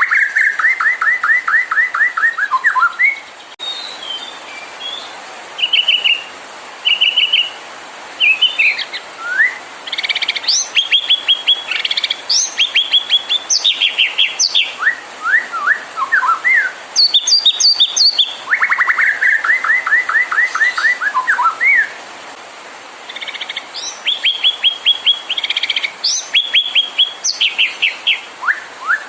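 White-rumped shama (murai batu) singing: phrase after phrase of fast trills made of rapidly repeated, sharp downward-sweeping notes, mixed with short whistled notes, with brief pauses between phrases.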